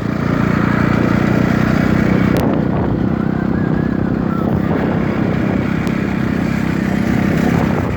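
Dirt bike engine running steadily under way, a continuous loud drone.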